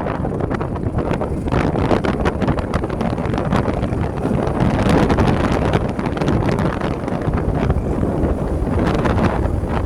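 Wind buffeting the microphone of a moving bike: a loud, rough rush with irregular gusty flutter throughout.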